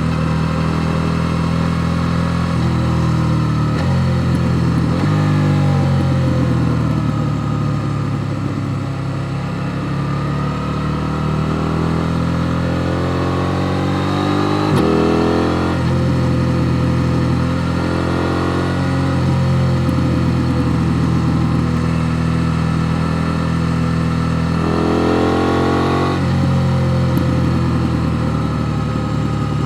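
KTM Duke 890 R's parallel-twin engine pulling under load, the revs rising and then changing sharply at gear shifts several times, at about 3, 5, 15 and 26 seconds in, with a climb in revs near the end.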